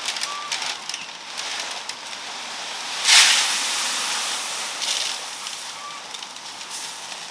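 Crackling wood cooking fire with scattered snaps, and a sudden loud hiss about three seconds in that fades over the next two seconds.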